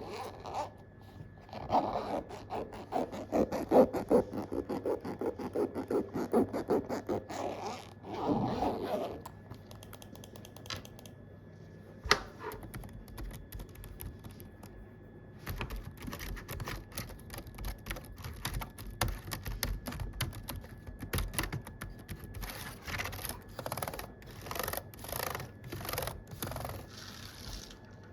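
Rapid scratching and rubbing strokes on a surface, in a busy run, then a quieter lull with a single sharp click, then another long run of quick strokes.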